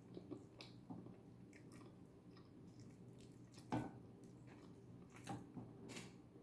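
Faint wet chewing and mouth smacks of someone eating eba with okro soup, with a couple of slightly louder clicks about four and five seconds in.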